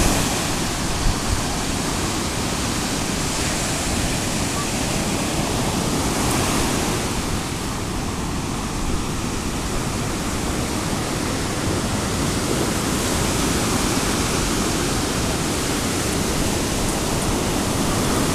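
Ocean surf washing onto a beach: a steady rush of breaking waves that swells a little near the start and again about six seconds in.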